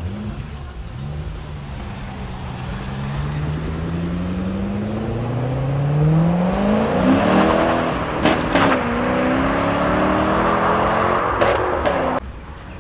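Performance car engine accelerating hard, its pitch climbing with a gear change or two and growing louder, with a few sharp cracks from the exhaust; the sound cuts off abruptly near the end.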